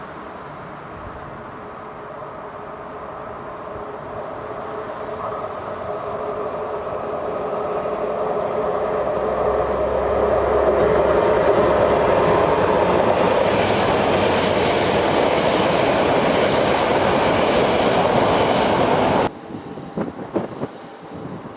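A train approaching and passing close on the line, its rail and running noise growing steadily louder for about ten seconds, then cutting off suddenly near the end.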